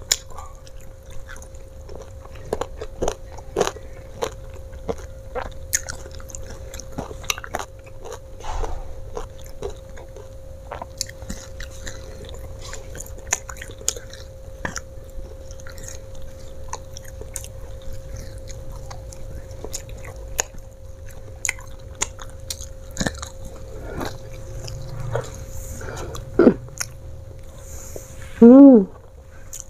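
Close-up chewing and crunching of crispy battered French fries, with many small sharp crunches and mouth sounds scattered throughout over a faint steady hum. Near the end there is a brief, loud voiced sound from the eater.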